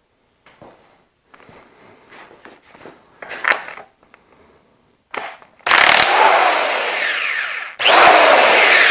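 Light metal clinks of tools on the engine, then a handheld power tool run in two loud bursts of about two seconds each near the end, loosening the rocker shaft bolts on an Allis-Chalmers C engine.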